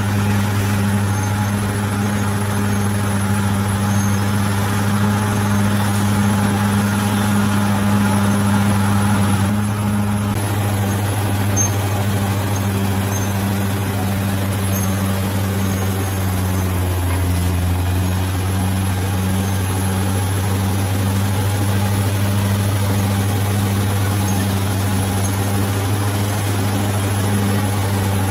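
Bulldozer's diesel engine running steadily at work, its pitch dropping slightly about two-thirds of the way through, with a faint high whine throughout.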